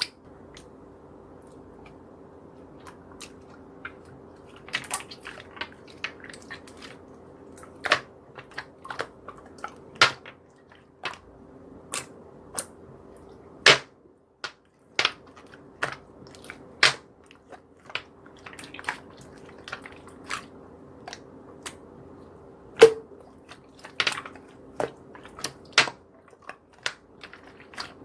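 A run of irregular, sharp clicks and snaps, some single and some in quick clusters, over a faint steady hum.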